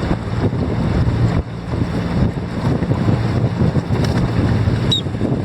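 Wind buffeting the microphone over a steady low hum on an open boat, with one short, rising bird chirp near the end.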